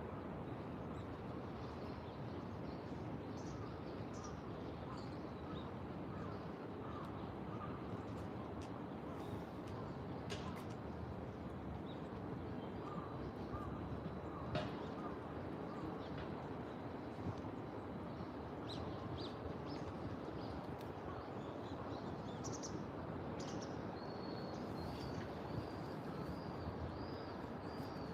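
Crows cawing and small birds chirping over a steady low background hum. A high, wavering bird call repeats several times near the end.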